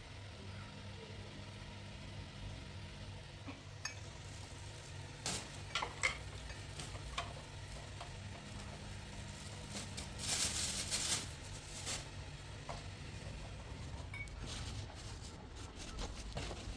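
Kitchen cooking sounds: scattered clinks of a utensil against a pot or dish over a steady low hum, with a hiss lasting about a second around ten seconds in.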